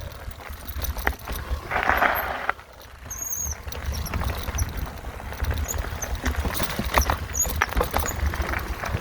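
Mountain bike rattling and clattering over a rough singletrack, with many sharp ticks from the bike's frame and parts and wind rumbling on the microphone. A bird chirps briefly about three seconds in.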